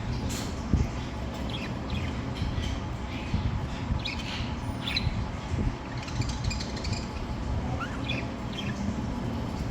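Budgerigars giving short, scattered chirps, in clusters over a steady low rumble.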